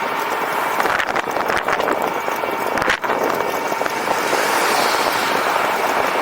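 Steady rushing road and wind noise from riding an e-bike, picked up by a camera mounted on the moving bike, with a few brief knocks about one to three seconds in.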